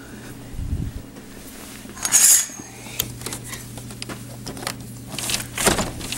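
Scattered knocks and clicks, with a louder scraping rattle about two seconds in and a sharp knock near the end, over a steady low hum.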